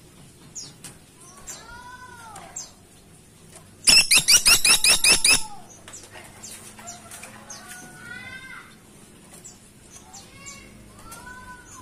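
Caladi tikotok woodpecker giving a loud, rapid series of about nine sharp notes, about four seconds in and lasting a second and a half. Before and after it come faint, arching whistled bird notes.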